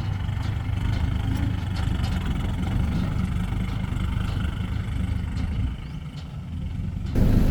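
Heavy diesel engine of earthmoving equipment running steadily at a low rumble. The sound dips a little about six seconds in, then becomes abruptly louder near the end.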